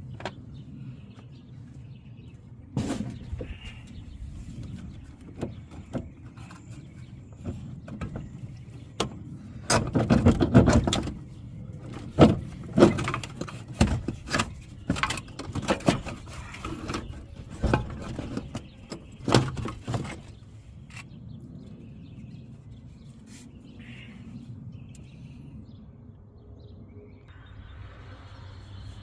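Scattered clanks and knocks of hand tools and metal parts being handled during work on a truck's brake booster, busiest in the middle of the stretch. Faint bird chirps sound in the background.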